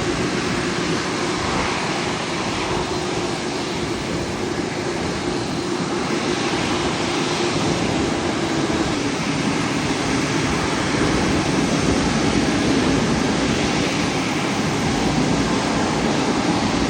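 Rolls-Royce Trent 800 high-bypass turbofan engines of a Boeing 777-200 running steadily, a constant rushing hum with a faint low drone, growing a little louder about eleven seconds in.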